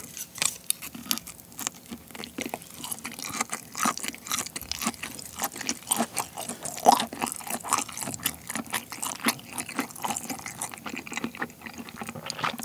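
Close-miked chewing of shrimp nigiri: a quick, irregular run of wet mouth clicks and smacks as the shrimp and rice are chewed.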